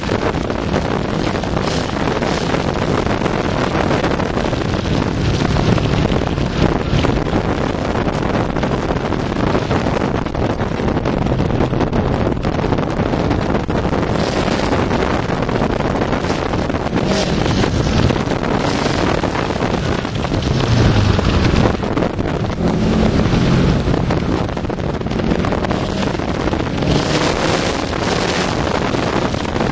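Subaru Impreza STi's turbocharged flat-four engine running hard under way, its note rising and falling, under heavy wind rushing over the microphone and road noise.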